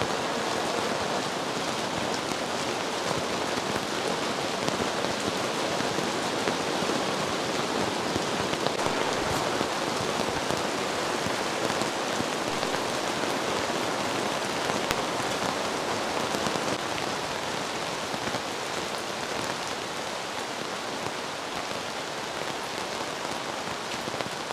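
Heavy downpour: dense, steady rain, easing slightly in the last few seconds.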